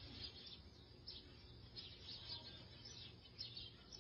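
Faint, scattered high bird chirps, repeated every half second or so.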